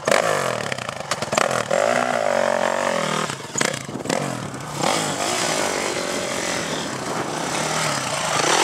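Honda 450R dirt bike's single-cylinder four-stroke engine revving hard, its pitch rising and falling repeatedly.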